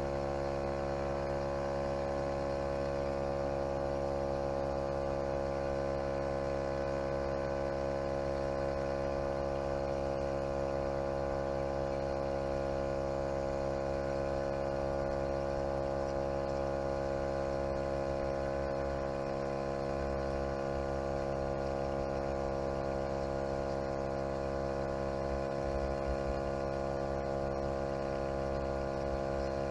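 Topline 12-volt portable air compressor running steadily, a constant motor hum with many evenly spaced tones, as it pumps up a flat tyre.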